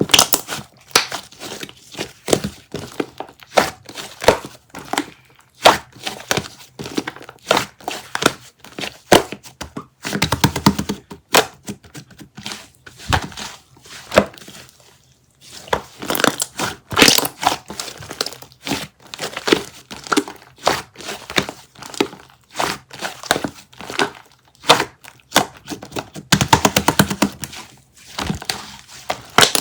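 Close-up crinkling and crackling of something being handled, with many sharp clicks and taps; denser stretches of crackling about ten seconds in and again near the end.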